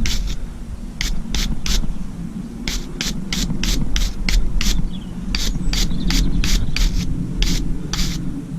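Quick scrubbing strokes cleaning a worn steel thread, in runs of several strokes about three to four a second with short pauses between, over a low steady rumble.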